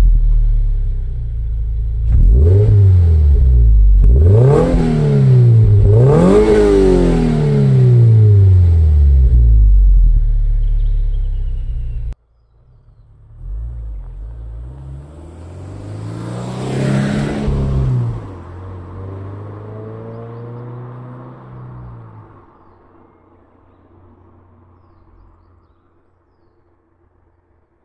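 Toyota GR86's 2.4-litre flat-four exhaust through a GReddy Trust Comfort Sport GT Slash aftermarket muffler, revved three times from idle, each rev rising and dropping back. After a sudden cut, a quieter stretch brings one more rev, then the sound fades away.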